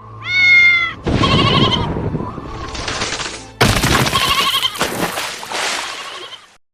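Sheep bleating: a short call, then two long quavering bleats.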